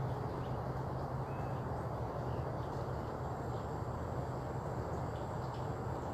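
Steady outdoor background noise with a low hum, and a few faint short bird chirps scattered through it.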